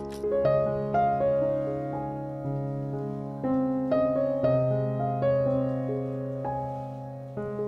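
Background piano music: a slow melody of single notes over held lower notes.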